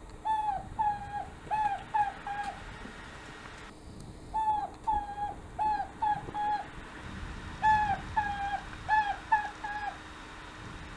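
A pet dove calling: three bouts of about five short, quick notes each, every note slurring downward.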